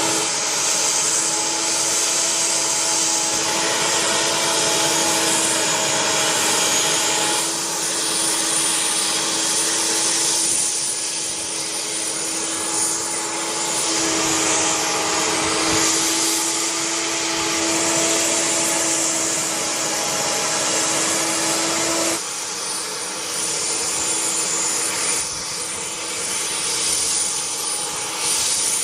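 Jet engines of a C-5M Super Galaxy running, a broad rushing noise with a steady high whine and a lower hum. The sound changes abruptly about 7, 14 and 22 seconds in.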